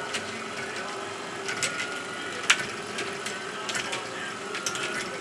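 Motorized wooden marble run running: a steady motor-and-gear whir with a faint whine, and marbles clicking and clacking irregularly along the wooden track, one sharper click about two and a half seconds in.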